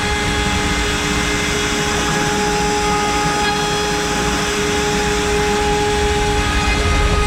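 CNC router spindle running at 24,000 rpm with an 8 mm cutter milling wood: a steady whine over the noise of the cutter in the wood.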